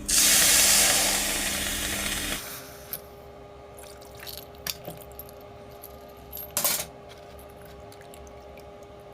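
A loud hiss over a low steady hum that cuts off suddenly after about two seconds. Then several light metallic clinks sound over a faint steady hum.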